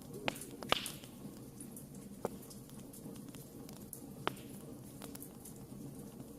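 Campfire crackling: a steady low hiss of burning wood with many small ticks and four sharper pops, the loudest less than a second in.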